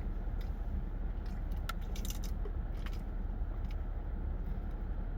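A person chewing fast food, with scattered sharp clicks and crackles of eating over a steady low rumble.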